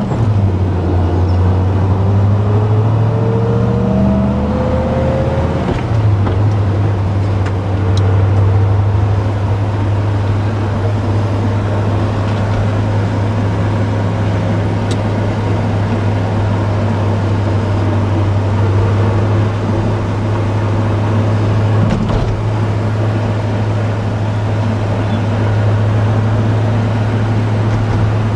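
1966 Pontiac GTO's 389 V8 engine and road noise heard from inside the cabin while driving. It pulls with rising pitch for the first several seconds, then settles into a steady cruise drone.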